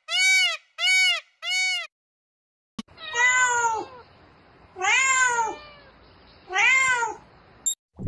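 An Indian peacock gives three short, arched calls in quick succession. After a short gap, a domestic cat meows three times, each meow about a second long.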